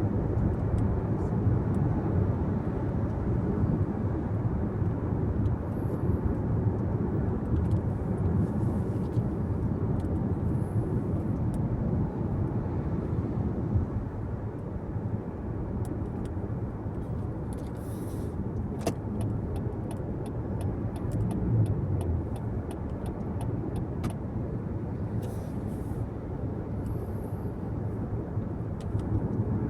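Car being driven on the road: a steady low rumble of tyres and engine. A run of faint, evenly spaced ticks comes about two-thirds of the way through.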